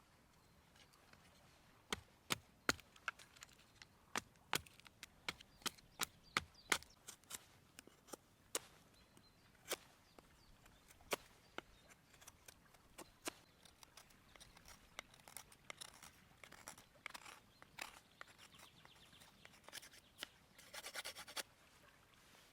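Knife chopping ingredients on a wooden cutting board: sharp, separate strokes at an uneven pace, thinning out after about ten seconds into softer scraping and rubbing, with a quick run of ticks near the end.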